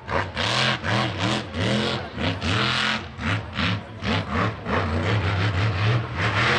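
Mega mud truck engine revving hard in repeated bursts, its pitch rising and falling with each surge of throttle.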